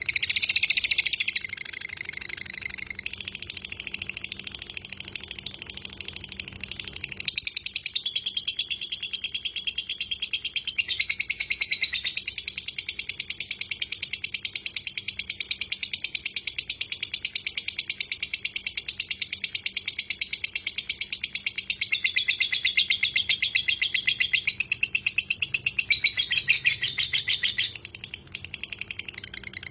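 Lovebird giving a long ngekek: one unbroken, very fast chattering trill of high notes, its pitch shifting several times along the way.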